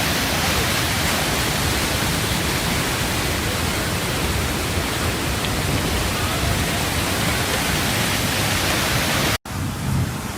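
Steady, loud rushing noise of a rainstorm and flash flood, broken off by a sudden dropout near the end, after which a duller, lower rushing follows.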